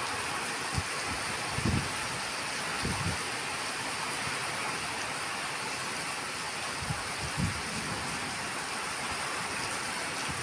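Heavy rain pouring steadily in a storm, with a few brief low thumps scattered through it.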